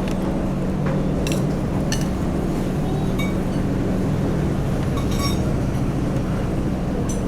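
Dishes, cutlery and glasses clinking now and then, with a few sharp ringing clinks about a second in, at two seconds and around five seconds, over a steady low hum of eatery background noise.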